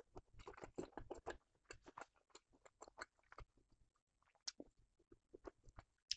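Faint close-up chewing of a pan-fried chicken, spinach and cheese sausage: a run of soft, wet mouth clicks, densest in the first second and a half, then sparse.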